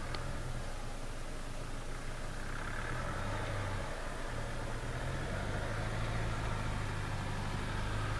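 Hyundai Tucson JM's 2.0 petrol inline-four idling, heard from inside the cabin as a steady low hum. Another car's engine and tyres rise outside as it approaches.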